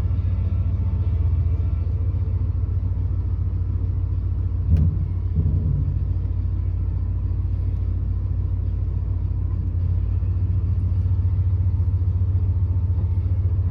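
A 1996 Ford F-150 pickup's engine running with a steady low rumble, still cold after a cold start. Two brief knocks come about five seconds in.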